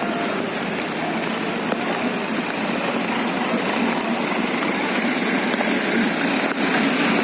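A steady, even rush of water noise with no clear individual events.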